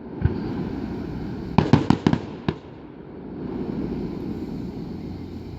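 Aerial fireworks going off: one sharp bang just after the start, then a quick cluster of several sharp reports about a second and a half in and one more shortly after, over a steady low background rumble.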